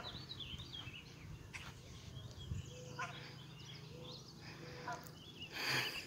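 Birds chirping repeatedly in short, high twittering calls over a steady low background hum. Near the end a brief, loud rush of noise covers them.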